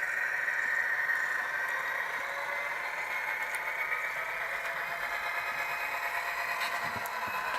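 Tsunami sound decoder in a model Kato GP35 locomotive playing a turbocharged EMD 567 diesel engine sound through its small speaker, running steadily with a high turbo whine that drifts slightly in pitch.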